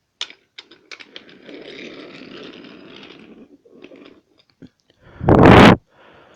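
Wooden toy train rolling along wooden track: irregular clicks, then a rumbling scrape. A loud, short burst of rushing noise comes about five seconds in.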